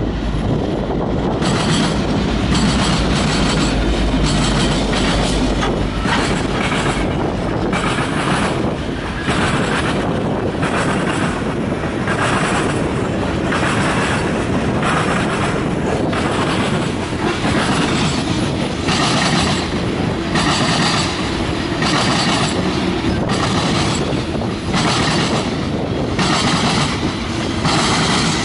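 Freight train passing close by: a steady rumble of steel wheels with repeated clickety-clack as the car trucks cross rail joints, from tank cars and covered hoppers. In the first few seconds a deep diesel rumble from the lead GE C40-8M and EMD SD70I locomotives passes and fades.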